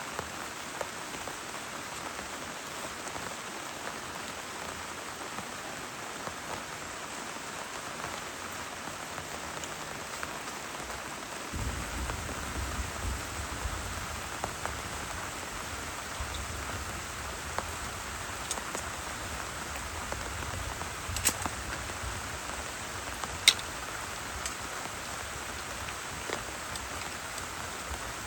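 Heavy rain falling steadily, with a few sharp, louder drop taps in the second half. About halfway through, a deep low rumble sets in and continues.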